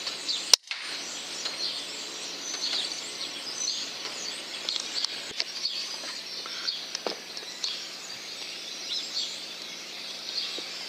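A single sharp crack about half a second in, the FX Impact .177 PCP air rifle firing, with a brief gap in the sound right after. Birds chirp and call on all sides throughout.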